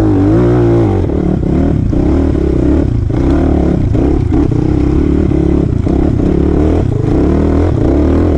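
Enduro motorcycle engine running under load, its pitch rising and falling again and again as the throttle is opened and eased.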